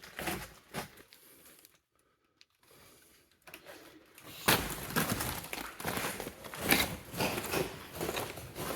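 Footsteps crunching on loose rock and debris in a mine tunnel, with clothing and gear rustling. The steps are sparse and quiet at first, then from about halfway in become a steady run of crunches.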